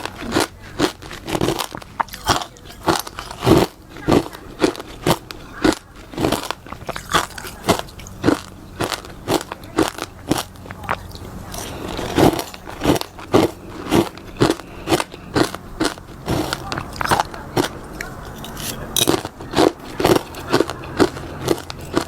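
Someone biting and chewing crunchy freezer frost, grown in the freezer with a humidifier: brittle crunches, about two a second.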